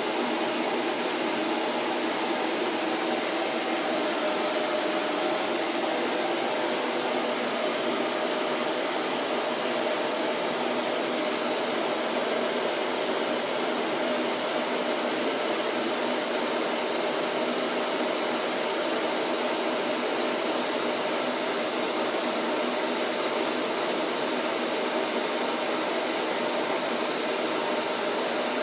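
Vacuum cleaner running steadily, a constant whooshing hum with a faint steady tone and no change in pitch or level.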